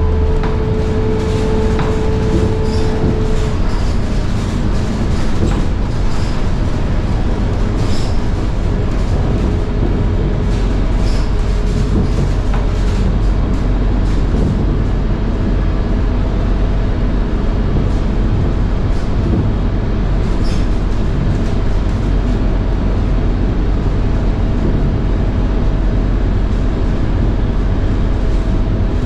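Interior noise of a Scania K230UB bus on the move: its Scania DC9 engine and ZF Ecomat 6HP504C six-speed automatic gearbox running under steady road rumble. A whining tone from the driveline stops about three and a half seconds in.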